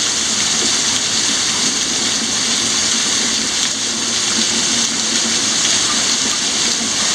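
Heavy thunderstorm rain pouring down, a steady dense hiss that holds even throughout.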